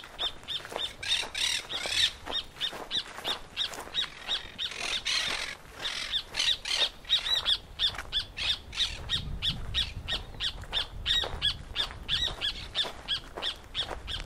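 Birds calling: a high note repeats about four or five times a second throughout, with louder, coarser calls about one to two seconds in and again around five seconds.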